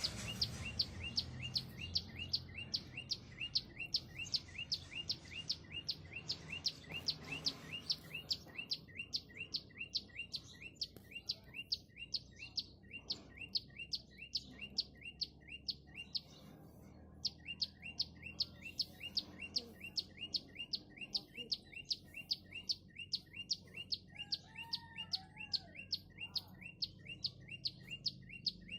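A songbird repeating one short, high, falling note several times a second in a long, steady series, with a brief break about halfway through. A couple of lower, arching calls come in about three-quarters of the way through.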